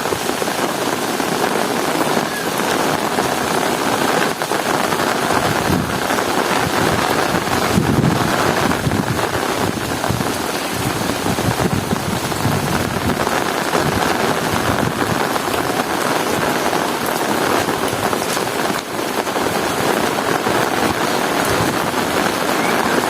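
Heavy rain pouring steadily, a dense, even hiss of drops on hard surfaces.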